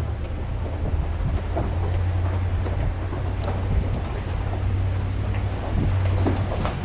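Pickup truck driving slowly on a rough, rocky dirt road: a steady low engine drone with tyres crunching and clicking over loose stones.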